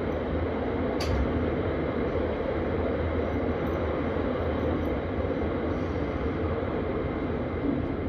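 Vienna S-Bahn train running between stations: a steady rumble of wheels on rail, with a single sharp click about a second in.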